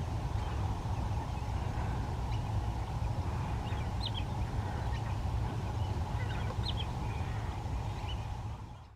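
Short, high bird chirps scattered over a steady low rumble, with a cluster about four seconds in and another around six to seven seconds.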